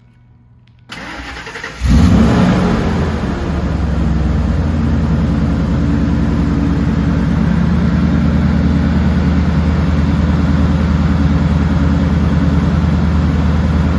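Supercharged 5.4-litre V8 of a 2000 Ford F-150 Lightning, breathing through headers and a MagnaFlow performance exhaust. The starter cranks for about a second, then the engine catches with a brief rev flare just under two seconds in and settles into a steady cold-start idle.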